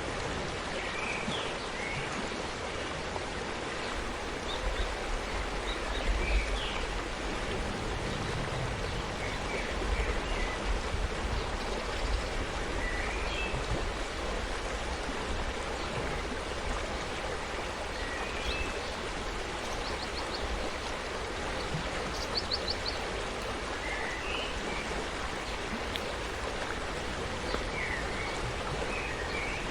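Forest stream flowing steadily, a continuous rush of water, with short bird chirps now and then.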